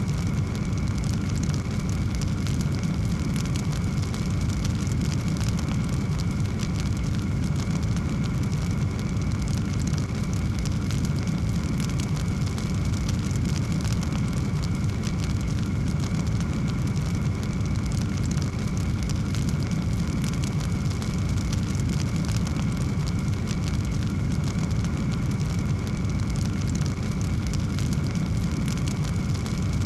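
Wood fire burning in a fireplace: a steady low roar of flame with many small, quick crackles.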